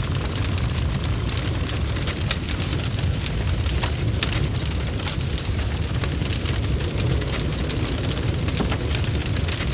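Bonfire crackling steadily: many quick sharp pops and snaps over a constant low rumble of the flames.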